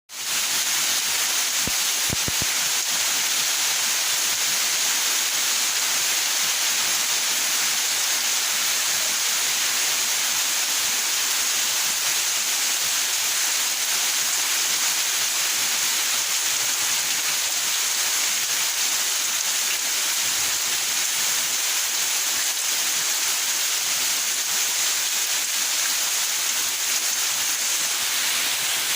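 Steady rain falling, an even dense hiss that fades in at the start, with a few brief ticks about two seconds in.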